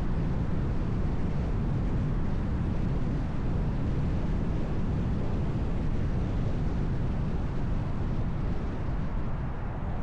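Car driving along: steady road and tyre noise with a low rumble, easing slightly near the end.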